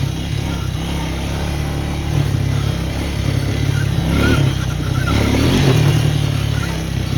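Four-wheeler (ATV) engine running while being ridden, getting louder briefly about four seconds in and again near six seconds.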